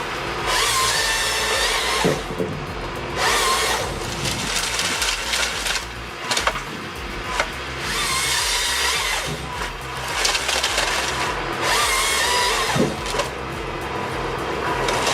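Power saw cutting through wood in repeated bursts of one to two seconds each, over a steady low machine rumble.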